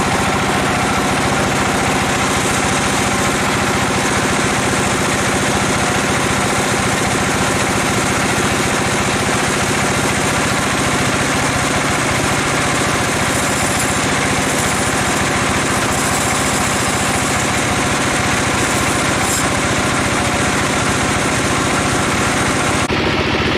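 Sawmill machinery running: a loud, steady engine drone with a harsh mechanical rattle, the sound changing abruptly near the end.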